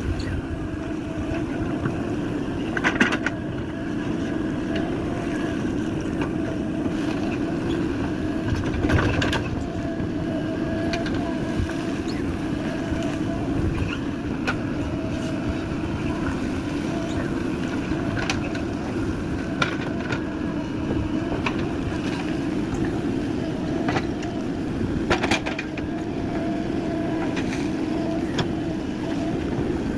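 JCB 3DX backhoe loader's diesel engine running steadily at work, with a few sharp clanks, about three seconds in, about nine seconds in and again late on.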